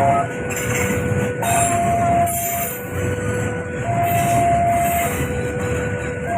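A passing train runs with a steady rumble while a level-crossing warning alarm sounds two alternating tones, high then low, each held a little over a second.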